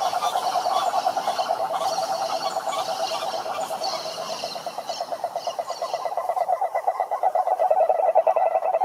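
Frogs calling in a chorus: a fast, continuous pulsing trill runs throughout. Higher, scattered calls over it die away about six seconds in, after which a thin, steady high note is heard.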